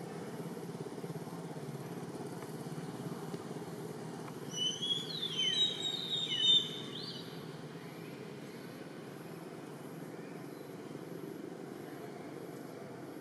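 A short run of high bird chirps and whistles, several sweeping sharply downward, lasting about two seconds near the middle, over a steady low rumble of outdoor background noise.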